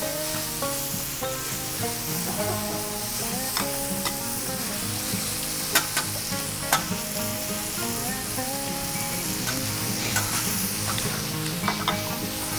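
Pork belly sizzling steadily on a thick iron griddle plate, with a few sharp clicks, the loudest two about six and seven seconds in.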